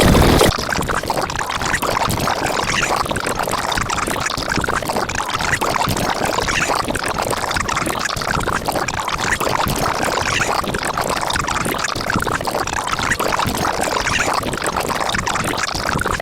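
A steady rushing, hissing noise with no clear pitch, which begins when a louder sound breaks off about half a second in.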